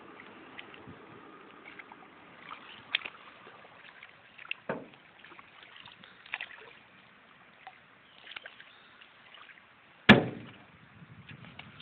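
Paddling a canoe: paddle strokes dipping and splashing in the water, with scattered light knocks and one loud knock about ten seconds in.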